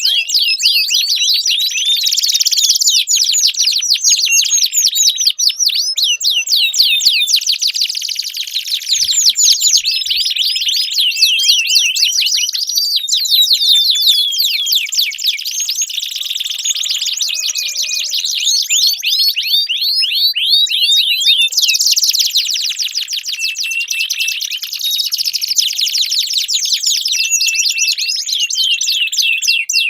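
Domestic canary singing without a break: long rapid trills and rolls of fast repeated high notes, the phrase changing every few seconds.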